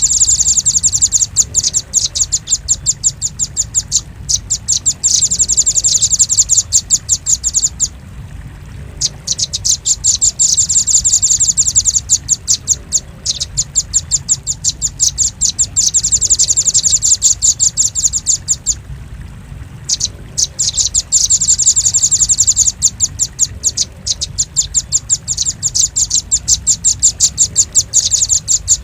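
Velvet-fronted nuthatch calling: long, rapid trains of sharp, high-pitched chip notes lasting several seconds each, broken by brief pauses twice. A steady low hum runs underneath.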